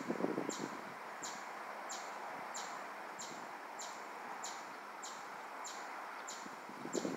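A small bird repeating a short, high chip call, evenly about once every two-thirds of a second, over a steady outdoor background hiss.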